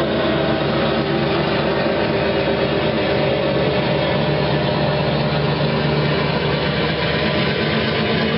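HO scale model diesel locomotive's sound decoder playing EMD diesel engine sound, running steadily at a low, even throttle through the model's small speaker.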